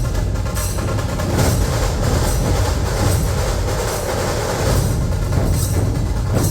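A dhol-tasha ensemble drumming at full force: massed dhols give a deep, continuous booming under the sharp, rapid rattle of tashas and clashing cymbals, dense and unbroken throughout.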